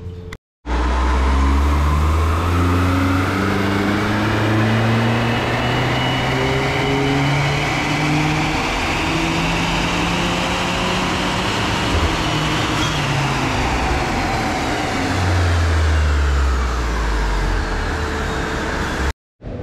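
Beijing X7's 1.5-litre turbocharged four-cylinder on a chassis dyno, breathing through its new custom cat-back exhaust and intake kit, on a full-throttle power run. Its pitch rises steadily for about eleven seconds, with a short sharp crack near the top, then falls back as the engine runs down.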